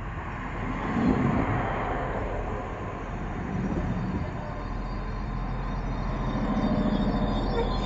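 A train moving through the railway station: steady rumble of engine and wheels on rails that swells about a second in and stays loud, with a low engine drone near the end.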